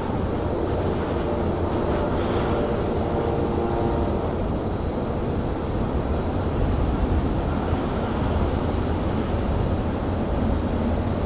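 Steady low rumble of railyard ambience, with a thin high whine throughout and a faint hum of several tones over the first few seconds.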